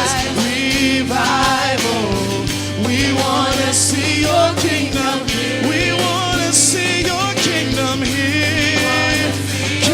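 Live worship music: a band with voices singing over a steady bass note.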